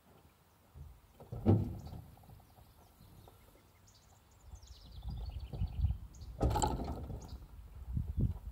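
Handling knocks and a low rumble close to the microphone, with a sharp click about six and a half seconds in. A bird sings a short falling trill about four seconds in.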